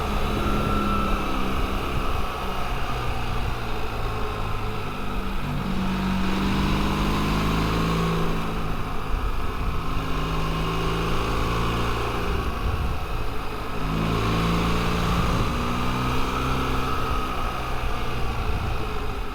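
Motorcycle engine under way on a mountain pass, the revs rising and dropping repeatedly as the bike is worked up through the bends, with steady wind rush over the microphone.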